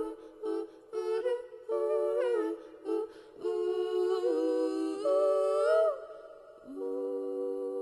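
Several women's voices singing a wordless a cappella harmony in short phrases, closing on a long held chord near the end.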